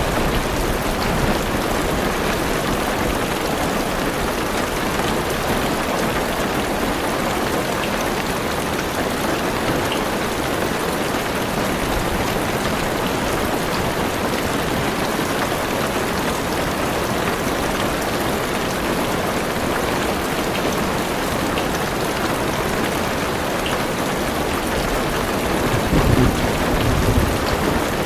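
Steady heavy rain falling on a car's roof and windows, heard from inside the car. A low rumble of thunder swells briefly near the end.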